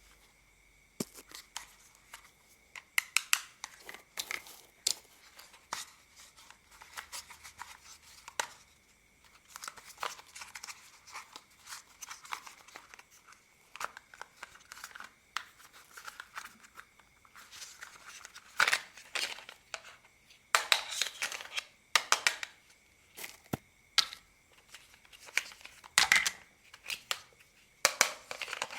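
Small plastic toy parts being handled and taken apart by hand: irregular sharp clicks, taps and scraping, with denser, louder runs of clicks in the second half.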